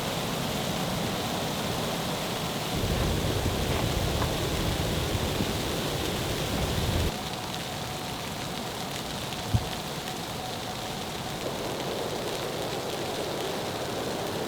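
Steady patter of rain or wet snow on a tent or tarp. For a few seconds near the start, a low rumble of wind gusts on the microphone runs under it.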